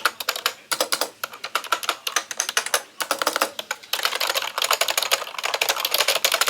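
Fast typing on an Actto retro-style keyboard: a rapid stream of key clicks in quick runs broken by brief pauses.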